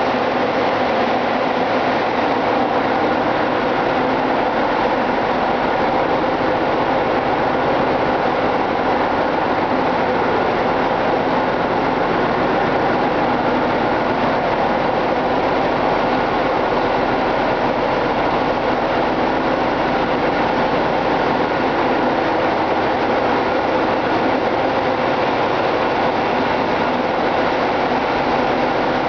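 Ship's engine-room machinery running: a loud, steady drone with many fixed tones, unchanging throughout.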